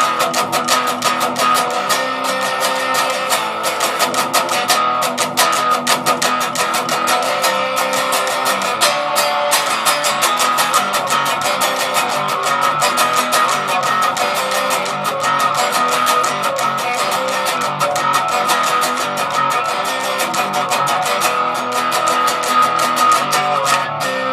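Les Paul electric guitar played through an amplifier's distortion channel with no other effects, picking fast notes and riffs without a break.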